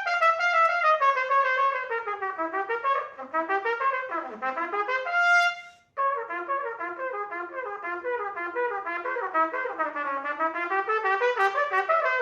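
Solo trumpet playing fast runs of short notes that climb and fall, ending a phrase on a held high note. It breaks off abruptly about six seconds in, then another quick passage starts.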